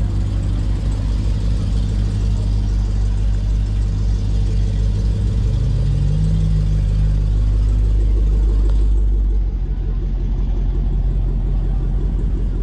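A car engine running steadily, with a low, even drone and a brief rise in pitch a little past the middle before it settles back.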